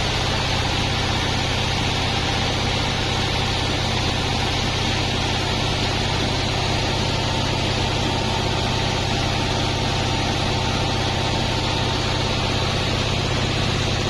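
Large 36-inch sawmill bandsaw running steadily, a constant low hum under a hissing wash of noise, with faint higher tones joining about halfway through.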